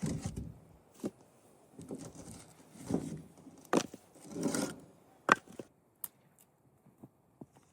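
A series of sharp knocks and thuds, five or so, spread unevenly, with stretches of rustling or scraping between them, like wood being handled or struck.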